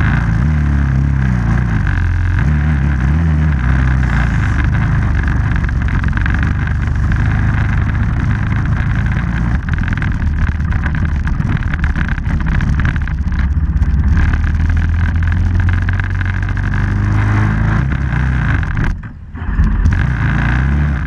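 Off-road vehicle engine running and revving; its pitch steps up and down through the first few seconds, then holds fairly steady, with a sudden brief drop in level about nineteen seconds in.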